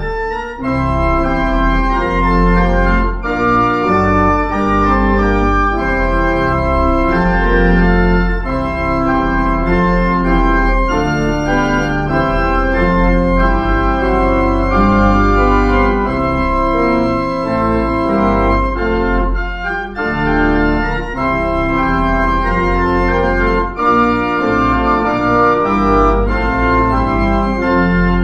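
Organ playing a postlude of sustained chords over deep bass notes, the closing music after the dismissal of a worship service.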